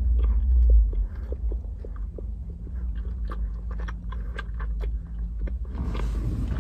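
Close-up chewing of soft pretzel dog bites with the mouth closed: many small wet smacks and clicks. A low rumble sits under the first second.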